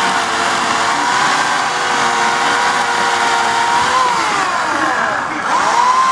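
Homelite 14-inch electric chainsaw running with a steady whine. A little past four seconds in its pitch drops away, and about a second later it quickly spins back up.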